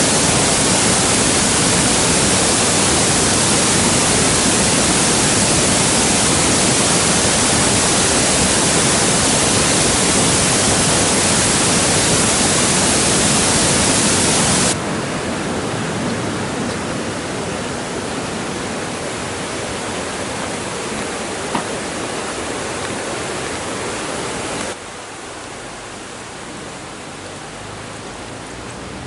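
Rushing water of a waterfall and mountain stream, a steady, even rush. It drops abruptly to a quieter level about halfway through and again near the end.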